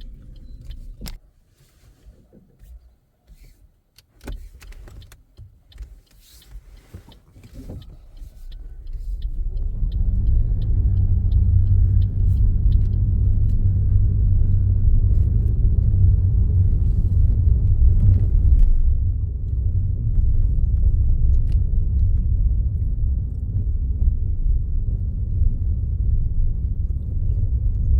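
Car heard from inside the cabin: quiet at first with a few scattered clicks, then from about nine seconds in a loud, steady low rumble of engine and road noise that holds to the end.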